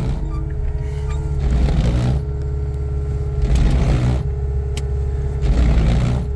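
Skid steer's engine running steadily, with three louder surges about two seconds apart as it works.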